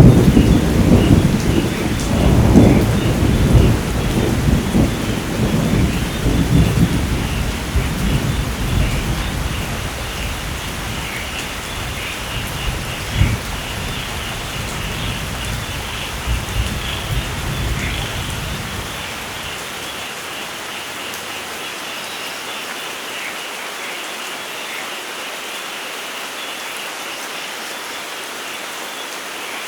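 Thunderstorm: a long roll of thunder rumbles and slowly dies away over about twenty seconds, with a sharper crack in the middle, over steady heavy rain. After the thunder fades only the even hiss of the rain is left.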